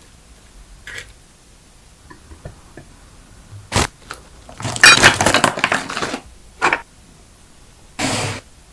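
Kitchen handling sounds: a sharp click, then about a second and a half of crackly rustling like a plastic wrapper being handled, another click, and a short hiss near the end.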